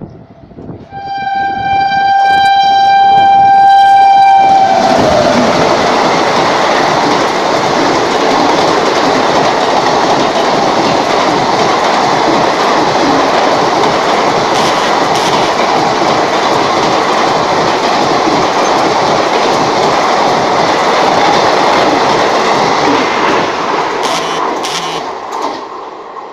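Indian Railways train horn sounding one steady note for about four seconds, its pitch dropping as the locomotive passes, then the loud rush and rapid wheel clatter of a fast train running through close by for about twenty seconds.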